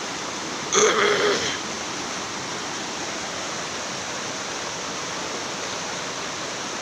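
River water rushing steadily over a rocky bed. About a second in, a short loud sound with a pitch to it stands out briefly over the water.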